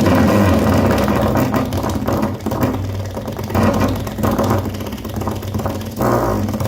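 Honda Civic FD engine running with an abnormal noise: a steady low hum with repeated swells of a rougher, noisier sound about once a second.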